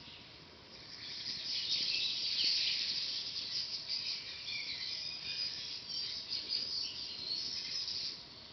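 A small songbird singing a long, rapid twittering song of high chirps and short trills. It starts about a second in and stops near the end.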